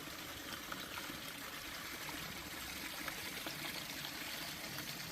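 Creek water running steadily and trickling over stones.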